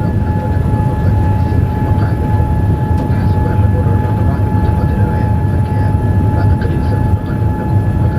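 Steady cabin noise inside a Boeing 787-8 Dreamliner: a loud, even engine and airflow rumble with a thin steady whine above it.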